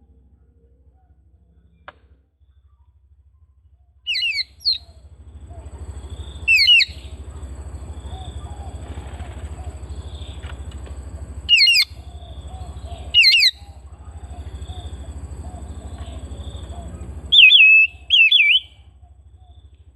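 Oriental magpie-robin (kacer) giving loud, sharp, downward-sweeping whistled calls in short clusters of one to three notes, five times, over a low steady hum.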